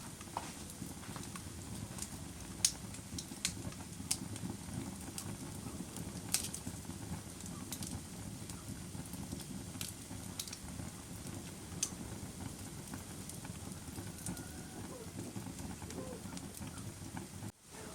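Bonfire burning with a steady low rumble, broken by irregular sharp crackles and pops from the burning wood.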